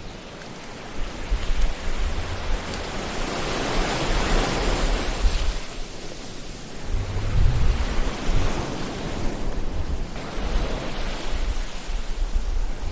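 Ocean waves washing ashore, a hiss of surf that swells and fades in slow surges every three to four seconds, over a low rumble.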